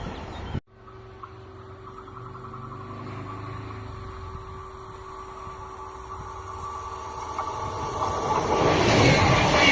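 A train running past, cut off abruptly under a second in. Then a quieter steady hum with a faint steady tone, and a train's noise growing steadily louder near the end as it approaches.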